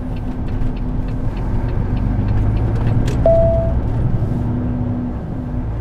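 Volvo FH 540 truck's engine and road noise heard from inside the cab while driving: a steady low rumble. A short single-pitched beep sounds about three seconds in.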